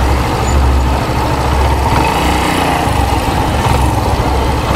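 Suzuki GSR 150 motorcycle's single-cylinder engine running steadily as the bike rolls slowly through traffic, a continuous low drone.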